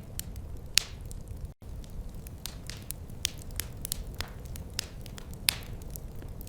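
Wood fire crackling in a fireplace: irregular sharp pops and snaps over a steady low rumble of burning. The sound cuts out for a split second about a second and a half in.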